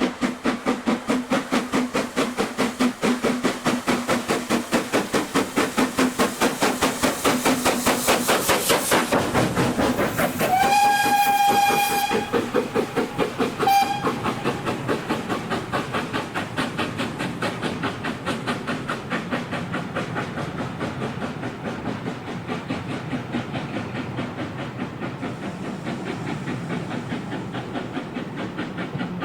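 Steam locomotive working past with rapid, even exhaust beats, sounding its whistle: one long blast of about a second and a half, then a short toot about two seconds later. The beats ease and grow quieter after the whistle.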